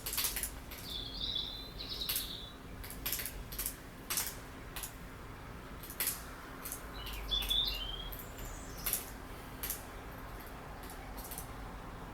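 A bird chirping in two short bursts, among scattered sharp ticks and clicks.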